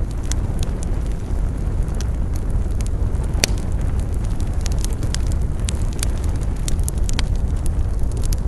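Wood fire burning, with frequent sharp crackles and pops over a steady low rumble; one loud pop about three and a half seconds in.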